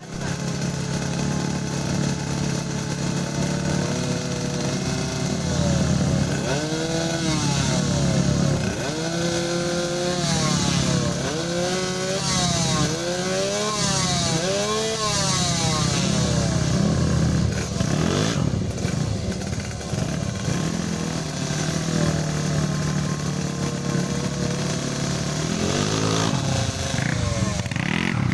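Small tuned motorcycle engine idling, then revved in a series of quick throttle blips, each rising and falling in pitch. It settles back to idle and is revved once more near the end.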